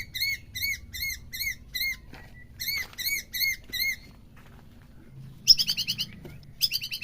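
Songbird singing runs of evenly repeated high, arched chirps, about four a second, then after a short pause two faster, trilled bursts near the end.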